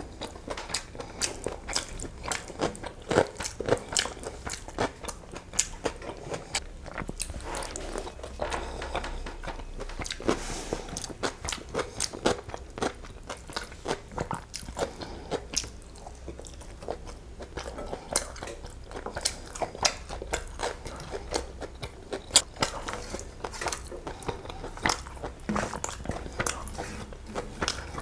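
Close-miked chewing of a mouthful of egg biryani rice and chicken curry, with many sharp mouth clicks, several a second.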